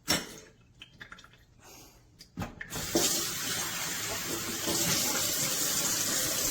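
De'Longhi Eletta Explore automatic espresso machine running its switch-off rinse: a few light clicks, then about three seconds in hot water starts spraying steadily through the spouts to clean them.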